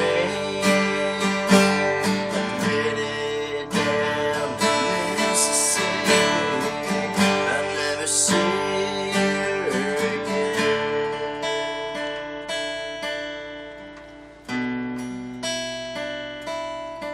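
Acoustic guitar strumming and picking chords in an instrumental country passage. The chords ring out and fade away about two-thirds of the way through, then a fresh chord is struck and a few single notes are picked near the end.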